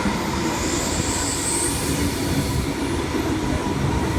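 Tangara electric suburban train running past the platform: a steady rumble of wheels on the track, with a faint high wheel squeal that rises slightly in the first second or two.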